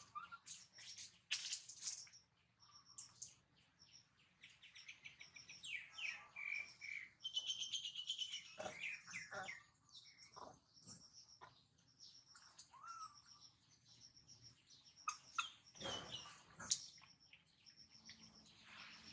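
Small birds chirping and twittering: many short high calls, with a fast trill about eight seconds in.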